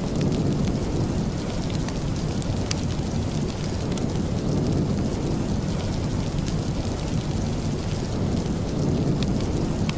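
Steady rain with a deep, even rumble underneath and scattered faint sharp ticks.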